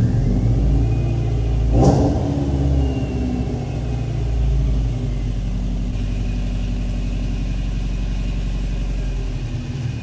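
Subaru Impreza STI's turbocharged flat-four boxer engine running at a steady idle, with one short loud burst about two seconds in.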